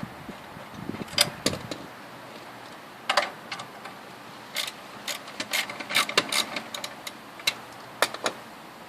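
Irregular sharp metallic clicks and clinks of hand tools working on the exhaust fittings of a Moto Guzzi Bellagio as its standard pipes are taken off. They come as a few single clicks, then a quick run of them a little past the middle, then a few more near the end.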